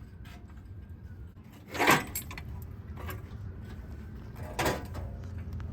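Two sharp clanks of metal parts being handled and set down, the first about two seconds in and louder, the second near the end, with a few lighter clicks and rattles between them.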